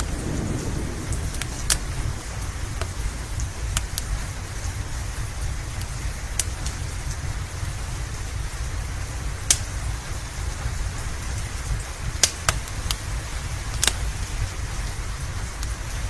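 Steady rain with a low rumble under it, and a wood fire crackling with scattered sharp pops every second or two.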